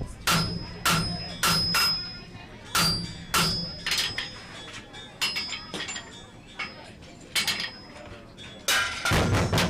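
Blacksmith's hammer striking iron on an anvil while forging, each blow followed by a short metallic ring. The blows come in uneven groups, a strong run in the first half, lighter taps in the middle, and a quick flurry of blows near the end.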